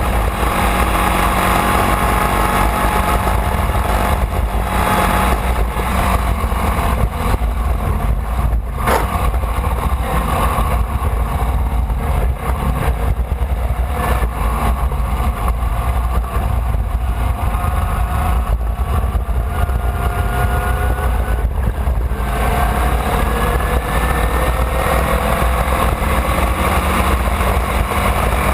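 Formula Vee race car's air-cooled Volkswagen flat-four engine running hard at speed under a heavy low rumble. About three-quarters of the way through, the engine note drops suddenly and then climbs steadily as the car accelerates again.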